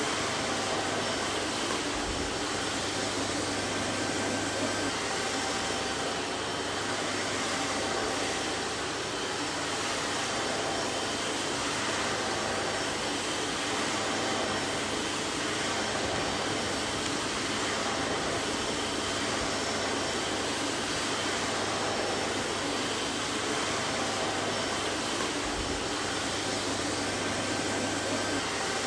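Vacuum cleaner running steadily: an even rushing of air with a faint motor whine and a low hum, unchanging throughout.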